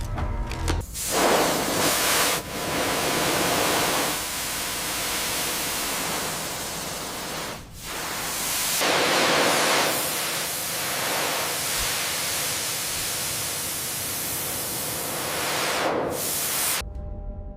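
Sandblaster nozzle blasting with a loud, steady hiss in long runs, breaking off briefly a few times and stopping shortly before the end.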